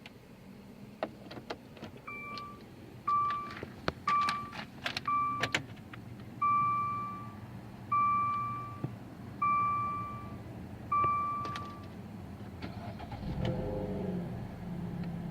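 Key clicks in the ignition of a 2013 Dodge Dart, then the car's warning chime dings: four short chimes about a second apart, then four longer ones about a second and a half apart. Near the end the engine cranks, catches straight away and settles into a steady idle.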